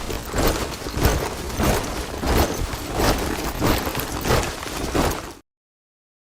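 A column of soldiers marching in step, many boots striking the ground together in a regular beat about every three-quarters of a second. The sound cuts off abruptly near the end, leaving about a second of silence.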